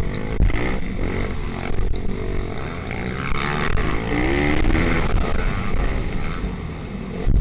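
Pitbike engines racing: small single-cylinder four-stroke motorcycle engines revving up and down, with a clear rising rev near the middle.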